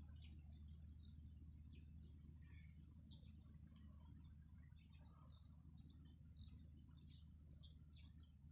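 Faint small birds chirping: many short, high calls scattered throughout, over a low steady hum.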